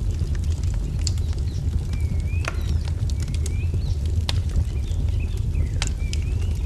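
Wood fire crackling, with sharp pops every second or so over a steady low rumble. A small songbird repeats short, rising chirps at intervals.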